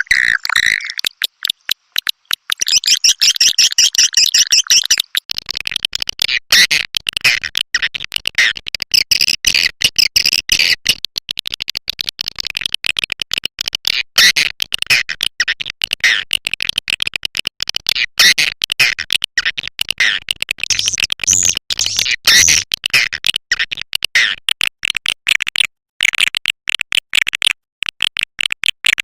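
Swiftlet call recording played as a lure sound for a swiftlet house: dense, rapid high-pitched twittering chirps, broken up by many very short gaps.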